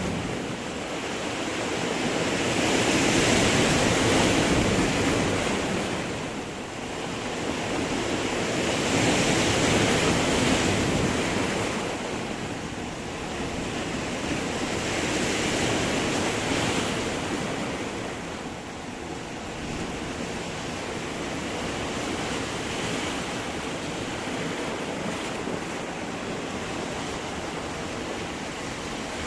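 Sea waves breaking and washing over stones on the shore, the surf swelling and fading about every six seconds, then settling into a steadier, quieter wash in the second half.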